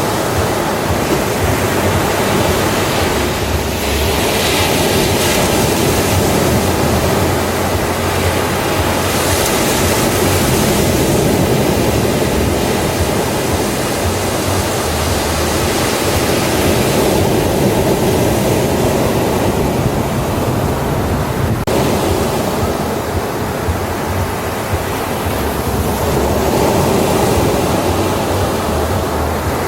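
Ocean waves breaking and washing up on a beach, a continuous rushing surf that swells and eases every few seconds.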